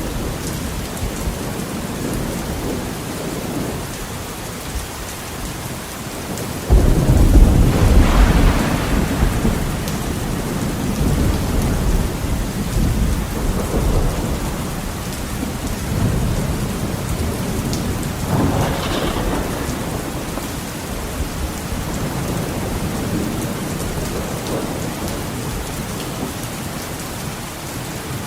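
Heavy rain beating steadily on a window during a thunderstorm. A sudden loud thunderclap comes about a quarter of the way in and rolls on for a few seconds, and fainter rumbles of thunder follow.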